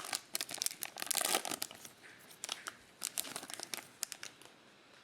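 Plastic wrapping on a trading card blaster box or its packs being torn open and crinkled: a dense run of crackles that thins out after about three seconds and stops near the end.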